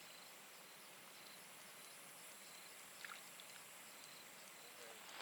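Near silence outdoors with faint, evenly repeated high chirps, typical of a cricket, and a brief faint sound about three seconds in.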